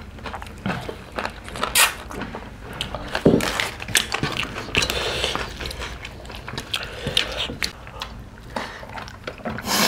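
Close-up eating sounds: chewing, lip smacking and wet mouth noises from eating mutton curry and rice by hand, with irregular clicks and crackles as food is handled and fresh leaves are torn and bitten.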